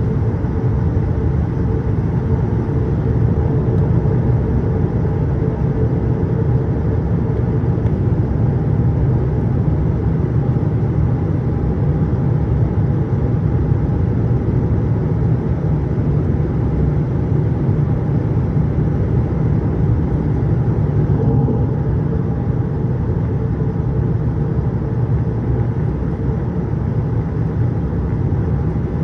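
Steady rumble of a Boeing 787-8 airliner in flight, heard from inside the cabin: engine and airflow noise with a faint steady hum, unchanging throughout.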